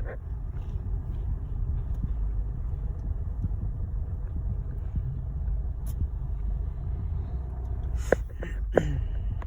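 A vehicle running with a steady low rumble. Near the end come two short sharp sounds, the second sliding down in pitch.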